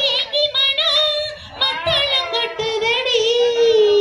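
A single high voice singing a song line with vibrato, holding a long note near the end.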